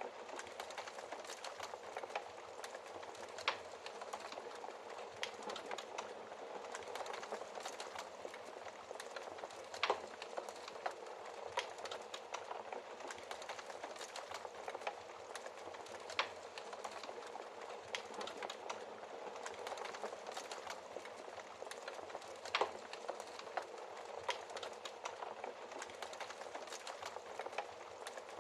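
Wood fire crackling in a fireplace: a steady hiss of burning with frequent small pops and a few louder snaps scattered through.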